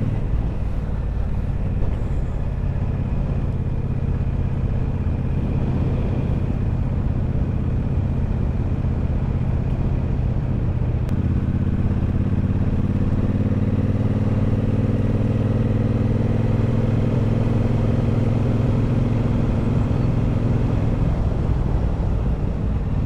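Triumph Bobber's 1200 cc parallel-twin engine pulling the motorcycle up a hill, heard over steady wind and road noise. About eleven seconds in the engine note changes, then climbs slowly for about ten seconds as the bike accelerates.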